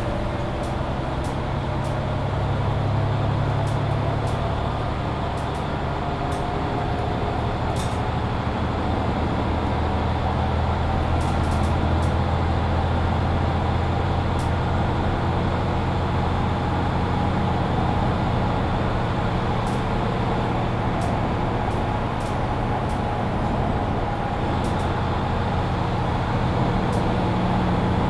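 Mercedes-Benz Citaro C2 hybrid city bus driving, its diesel engine running steadily, with a drivetrain whine that rises slowly in pitch. Scattered light clicks and rattles can be heard.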